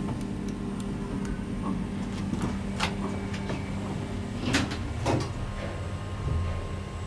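MacGregor Navire traction elevator's doors and door mechanism working: several sharp clicks and clatters, the loudest about four and a half and five seconds in, over a steady low hum.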